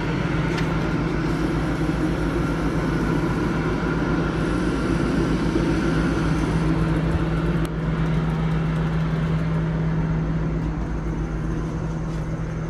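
A motor running steadily: an even hum with a fast low pulse underneath.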